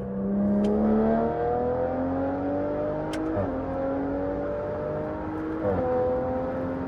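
BMW 540i's turbocharged B58 inline-six, catless and straight-piped, under a hard acceleration pull before it is fully warmed up. The revs climb steadily, then drop with an upshift about three and a half seconds in and again near six seconds, climbing again after each shift.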